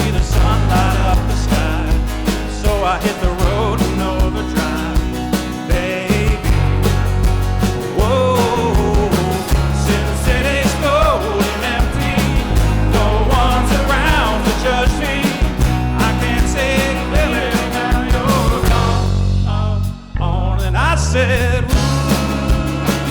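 Live rock band playing a song, with a singer over drums and bass; the band drops out almost completely for a moment about twenty seconds in, then comes back in.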